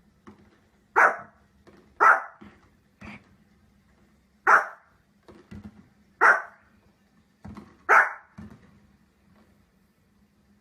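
A dog barking: five loud, sharp single barks one to two seconds apart, with softer barks or grunts between them.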